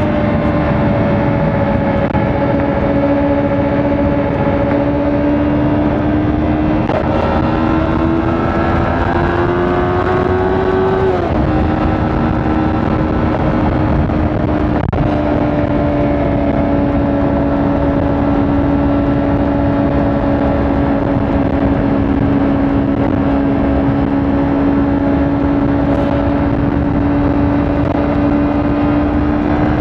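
Kawasaki Ninja 400 parallel-twin engine running at cruising speed, with a steady rushing noise underneath. About seven seconds in the engine note climbs under throttle, then drops sharply around eleven seconds in as the rider shifts up, and holds steady again.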